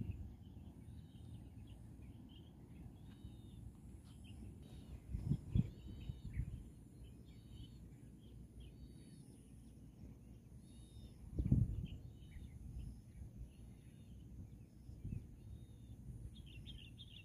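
Faint outdoor ambience of birds chirping, short arched calls repeating about once a second. Wind buffets the microphone in low rumbling gusts about five seconds and eleven seconds in.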